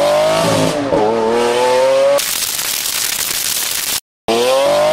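Car engine revving, its pitch climbing, dipping about a second in and climbing again. At about two seconds a loud hissing rush takes over. It cuts off dead near four seconds, and then the climbing engine note comes back.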